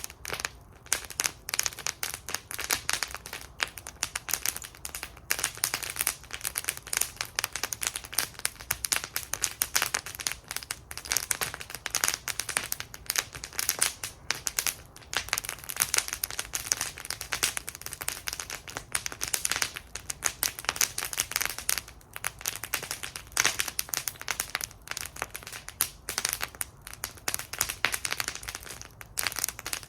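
Wood fire burning in a fire bowl, crackling continuously with dense, irregular snaps and pops.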